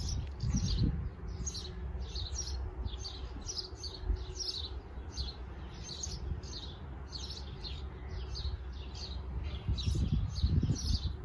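Small birds chirping, short high chirps repeating a few times a second without a break, over a low rumble.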